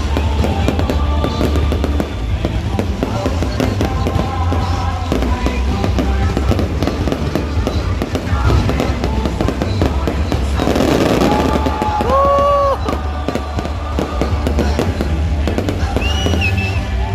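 Fireworks display: many bangs and crackles in quick succession over a steady low rumble, with music playing alongside.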